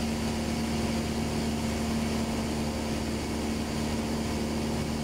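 Single-engine Cessna's piston engine and propeller running steadily in cruise flight, a constant drone with a steady hum.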